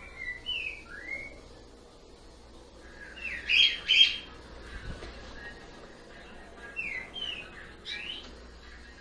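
A bird chirping in short, downward-sliding calls, in a few groups, with the loudest cluster about halfway through.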